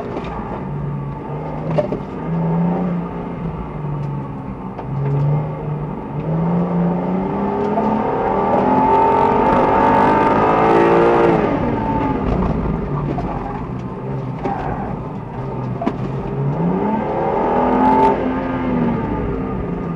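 BMW E90 330i's 3.0-litre straight-six engine, heard from inside the cabin, driven hard through a cone slalom. It rises and falls with short bursts of throttle, then climbs in pitch for a few seconds before dropping off sharply about eleven seconds in, and revs up again near the end.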